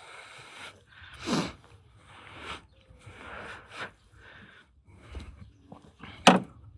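Scattered rustling and clicking handling noises, with a sharp knock about six seconds in.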